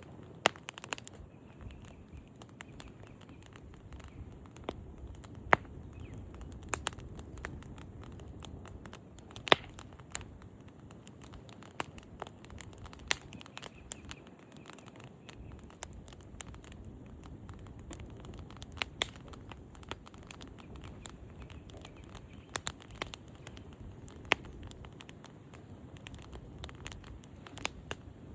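Campfire crackling: irregular sharp pops and snaps, several a second, some louder than others, over a low steady rumble.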